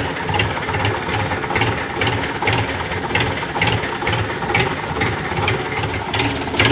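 Tractor engine idling steadily with an even, regular beat, warming up just after being started.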